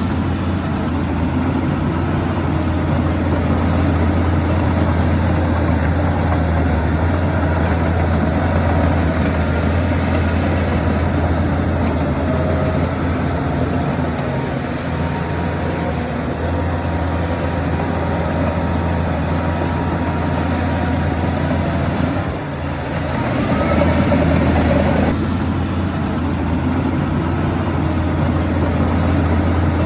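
Heavy diesel engine of earthmoving machinery running steadily. About two-thirds of the way through it dips briefly, then revs higher for a couple of seconds before settling back.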